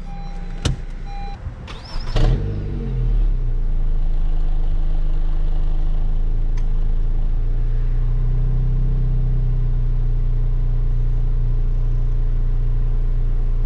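A 2019 Honda Civic's push-button start: a click and a short chime, then the engine fires about two seconds in with a brief rev that falls back. It then settles into a steady idle hum, heard from inside the cabin.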